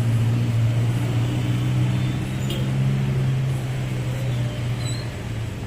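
Large truck's diesel engine running steadily at low revs, a deep even hum that grows a little quieter after about four seconds.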